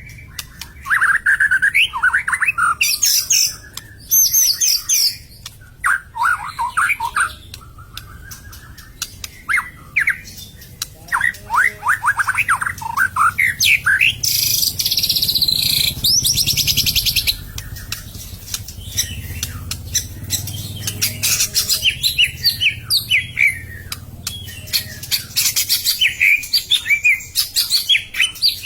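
White-rumped shama singing in fast, loud bursts of sweeping whistled notes. A harsh rasping call runs for about three seconds midway. The bird is in an agitated, fighting mood.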